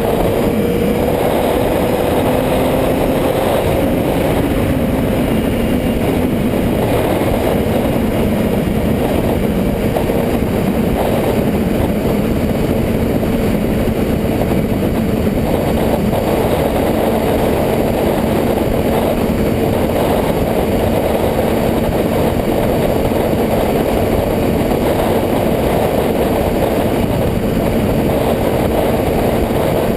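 Motorcycle engine running at a steady pitch, rising slightly over the first few seconds and then holding.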